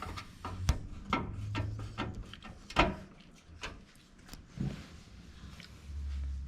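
Irregular light clicks and knocks from computer parts being handled and fitted. The loudest knock comes about three seconds in.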